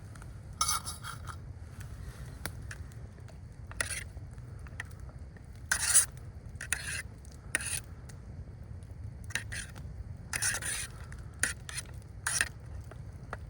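A utensil stirring and scraping in a metal pot: about a dozen short scrapes and clinks at uneven intervals, over a steady low rumble.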